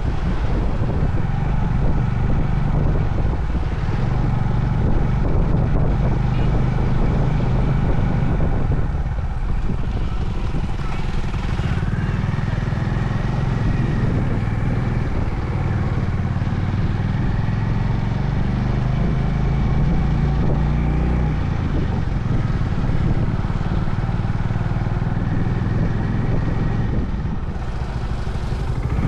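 Honda CB350 Highness's single-cylinder engine running under way on the road, its note easing off briefly about nine seconds in and again near the end, with wind and road noise over it.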